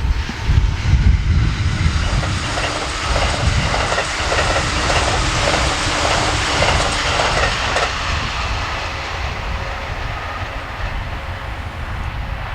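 An electric train passing at speed, its wheels clacking over the rail joints in a quick, even rhythm through the middle of the pass. The noise swells and fades over about ten seconds, with wind rumbling on the microphone underneath.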